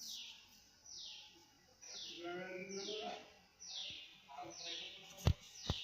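A bird repeating a short call about once a second, each call a quick downward sweep in pitch. Two sharp clicks sound near the end.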